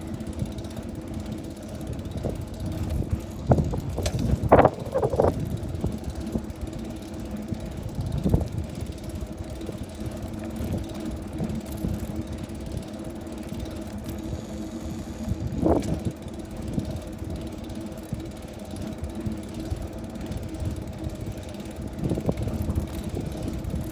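Bicycle being ridden along a road: a steady rolling hum with wind rumbling on the microphone, and a few louder knocks, the loudest about four and a half seconds in and again near the middle.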